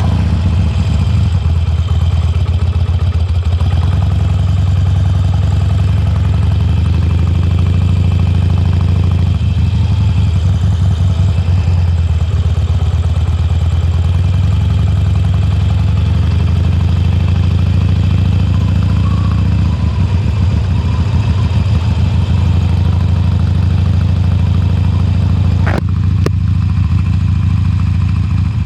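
Harley-Davidson Sportster Forty-Eight's air-cooled 1200 V-twin on its stock exhaust, idling steadily just after being started. A single sharp click sounds near the end.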